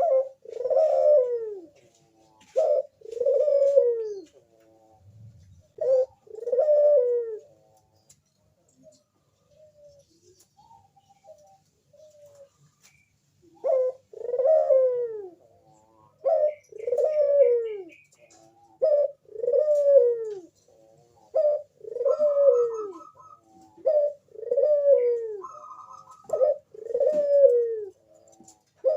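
Crossbred puter dove (ringneck-type dove) cooing: repeated two-part calls, a short clipped note followed by a longer falling coo, every two seconds or so. The calling breaks off for several seconds in the middle, then resumes in a steadier run.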